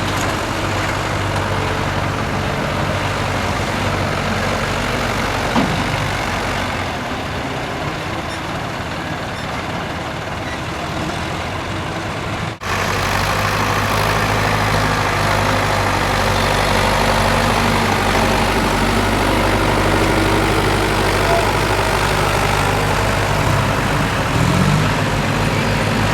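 Tractor diesel engine running steadily, with a brief rise in pitch about five seconds in and again near the end. An abrupt break comes about halfway, after which the engine is louder.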